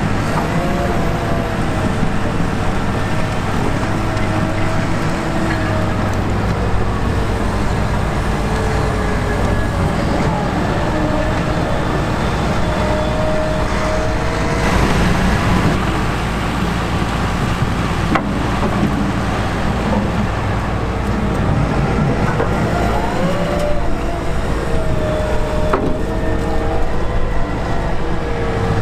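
Heavy diesel sugar beet harvesting machinery running under load: a steady engine drone with whining tones that slide up and down in pitch.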